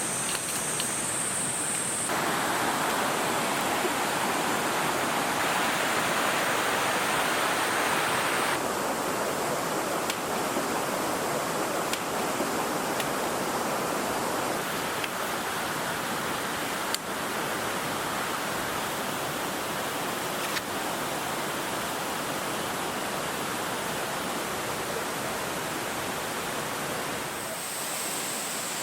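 Mountain stream rushing over rocks, a steady rush of water that grows louder about two seconds in and eases back about eight seconds in. A thin, high steady buzz sits over it during the first two seconds and again near the end.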